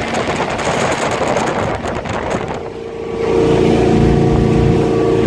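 Chevy 350 V8 with thru-hull exhaust running at cruising speed in a Mariah bow rider, mixed with the rush of wind and water. The engine's steady drone comes through more clearly about three seconds in.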